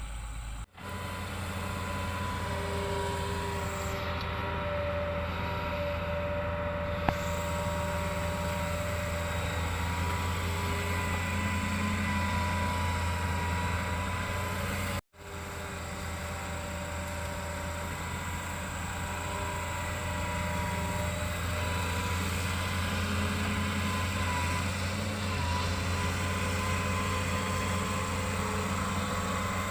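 Hitachi excavator's diesel engine running steadily, with a low hum and a slight rise in pitch a couple of times; the sound drops out for an instant about halfway.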